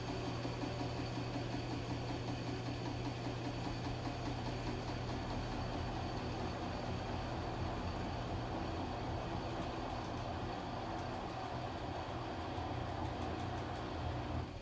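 Washing machine running: a steady low hum over an even wash of noise, dropping suddenly at the very end.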